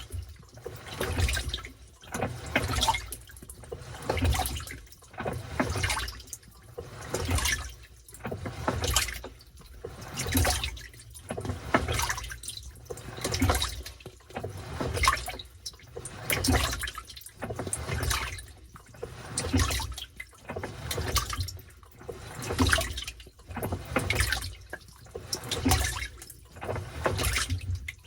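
Washing machine in its wash cycle, water sloshing and churning in rhythmic surges about once a second as the drum agitates the load.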